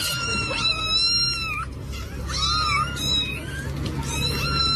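Cat meowing: a run of long, high-pitched meows, three or four calls one after another.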